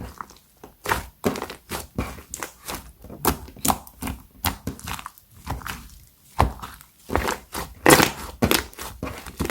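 Slime being squeezed and pressed by hand: irregular wet pops and crackles, a few every second, loudest near the end.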